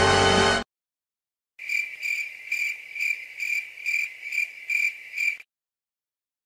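A music clip cuts off abruptly. After a second of silence comes a cricket-chirping sound effect: evenly spaced chirps at one steady pitch, about two a second, for about four seconds.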